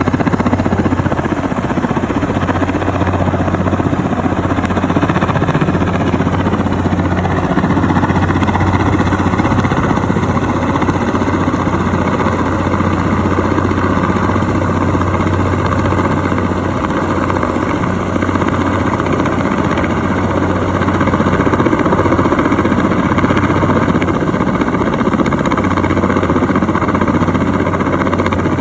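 Helicopter running steadily, a constant engine and rotor noise with a steady low hum.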